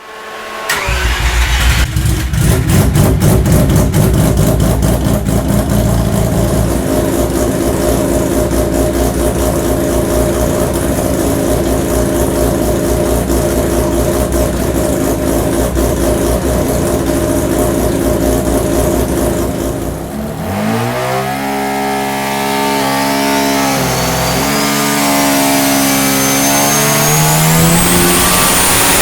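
Turbocharged bridge-ported Mazda 13B rotary engine on an engine dyno, starting within the first second and then running steadily for about twenty seconds. It then revs up and down several times and climbs steadily in revs, with a thin high whine rising in pitch alongside it.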